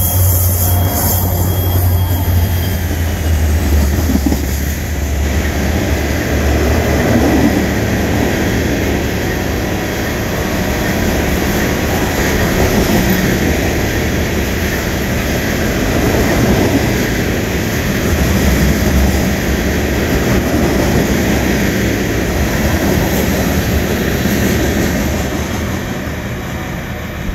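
Freight train passing close: the diesel locomotives' engine drone for the first few seconds, then a long string of loaded covered hopper cars rolling by with steady wheel-on-rail rumble and clatter, fading near the end as the train moves away.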